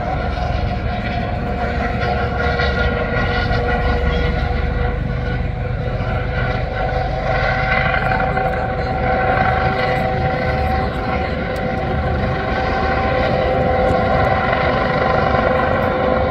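Aircraft engines droning steadily overhead, with a steady whine in two tones that slowly drifts in pitch, over a low rumble.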